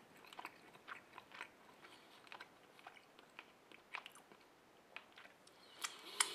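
A man chewing a soft piece of ready-made kebab meat with a minced-meat texture, close to the microphone. Quiet, irregular mouth clicks and smacks, a few a second, with a few louder clicks near the end.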